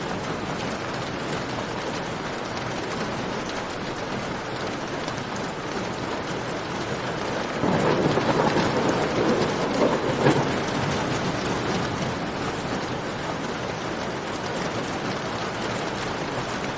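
Steady rain falling, with a louder low rumble that swells suddenly about eight seconds in and dies away over about three seconds.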